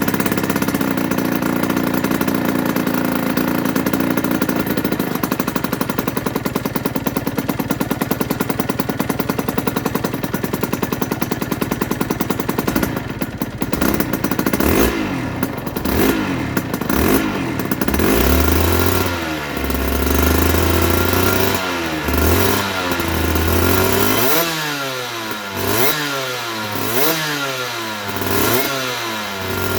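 Aprilia RS125's two-stroke single-cylinder engine running at a steady speed, then revved again and again, its pitch rising and falling with each throttle blip, the blips coming about once a second near the end.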